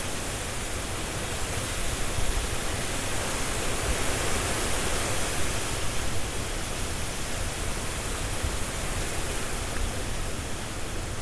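Strong gusting wind blowing through trees, leaves rustling, as an even rushing noise that swells a little a couple of seconds in and then eases back.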